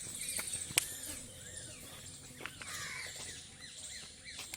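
Birds chirping outdoors: a run of short, quick calls that rise and fall, with one sharp click a little under a second in.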